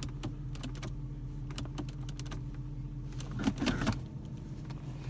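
Chrysler 300C's 5.7-litre Hemi V8 idling, a steady low hum heard from inside the cabin, with a run of light clicks and taps from the interior controls, bunched together about three and a half seconds in.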